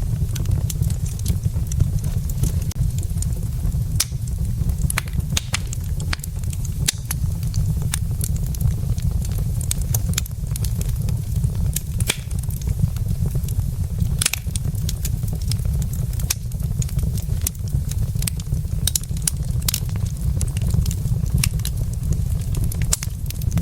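Wood logs burning in a fireplace: irregular sharp crackles and pops over a steady low rumble.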